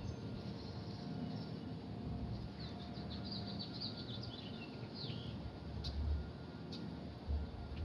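Songbirds chirping and trilling in quick runs of short high calls over a steady low background rumble, with a few brief clicks and low bumps near the end.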